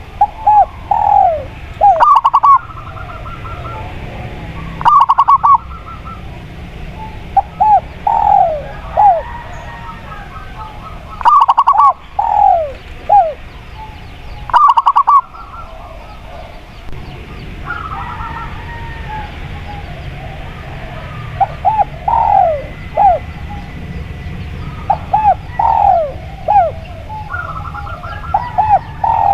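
Spotted dove and zebra dove cooing: groups of short, falling coos repeated again and again. Four groups, a few seconds apart in the first half, are very loud and distorted. A steady low hum runs underneath.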